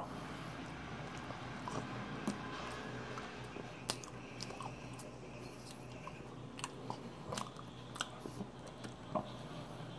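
Close-miked chewing of flaky apple strudel pastry, with a bite near the start and scattered sharp crunchy clicks as the flaky layers break.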